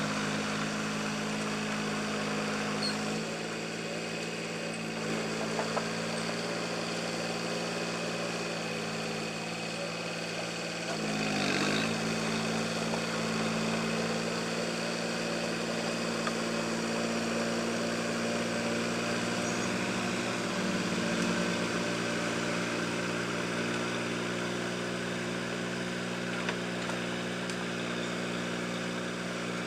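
Swaraj 735 FE tractor's three-cylinder diesel engine running steadily while pulling a rotavator. The engine note dips briefly and picks back up about eleven seconds in.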